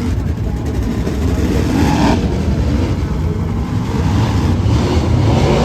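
Dirt Late Model race car V8 engines running loud and steady, swelling briefly about two seconds in and again near the end.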